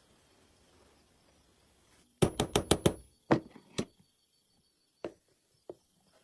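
Sharp knocks of hard objects: a quick run of about six in under a second, two more just after, then two single knocks near the end.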